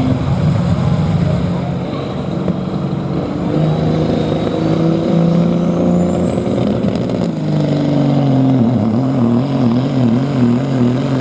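Semi truck's diesel engine under load, pulling the sled, with a turbocharger whine climbing steadily in pitch through the second half and the engine pitch wavering up and down near the end. The run did not sound good.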